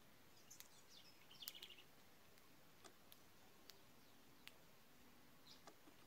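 Faint, sparse sounds: a short burst of small-bird chirps about a second and a half in, and scattered single ticks, as of beaks pecking at grain.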